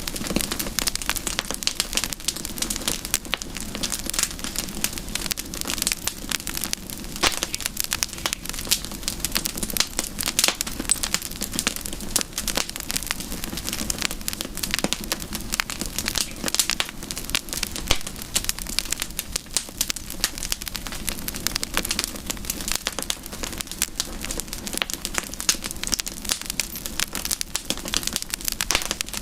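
Campfire burning with a dense, irregular crackle of snapping wood over a steady low rush of flame.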